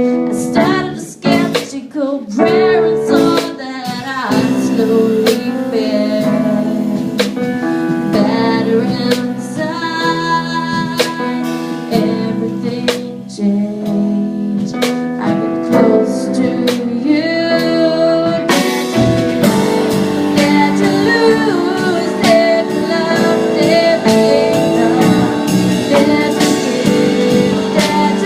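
Live band playing a gospel-pop song, with guitar and keyboard and some singing. About two-thirds of the way through, the band comes in fuller, with a heavier low end and a steady beat.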